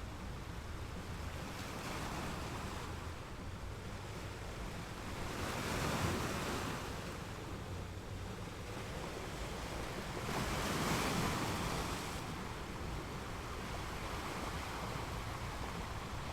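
Small waves breaking and washing on a beach, two waves swelling louder about six and eleven seconds in. Underneath runs a steady low rumble of wind on the microphone.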